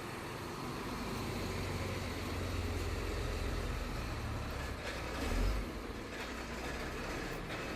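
Diesel engine of a MAN fire truck idling steadily, with a brief louder low swell about five seconds in.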